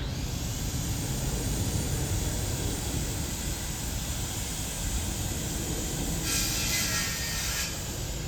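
Jet airliner engines running with a steady roar and hiss; a brighter hiss swells for about a second and a half near the end.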